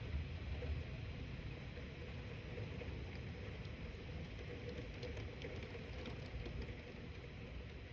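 Steady low rumble and hiss of outdoor storm ambience as a thunderstorm builds, with a few faint ticks about five to six seconds in.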